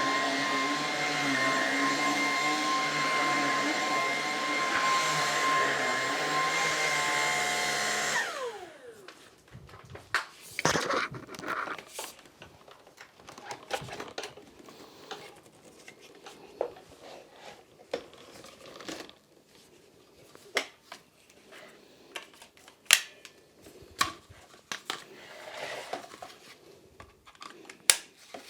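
Lupe Pure cordless stick vacuum running on thick-pile carpet with a steady whine, then switched off about eight seconds in, its motor spinning down. After that come scattered clicks, knocks and rubbing from handling.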